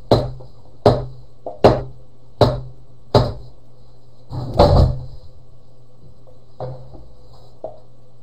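Heavy knocking on a wall or floor: six sharp knocks in a steady beat, about one every three-quarters of a second, then a louder, longer bang about four and a half seconds in, and two fainter knocks near the end.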